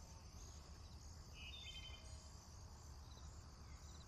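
Faint nature-sounds ambience: a steady high insect drone with a few short bird chirps, the clearest about a second and a half in.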